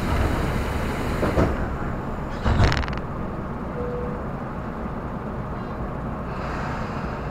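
Tobu Railway electric commuter train running on the rails with a steady low rumble. A hiss over the first second or so and a short clatter of knocks about two and a half seconds in.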